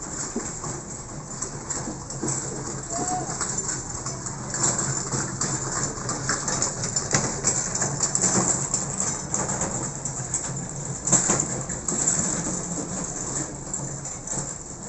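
Outdoor ambience: a steady hiss with small crackles over a low hum, and a short bird call about three seconds in.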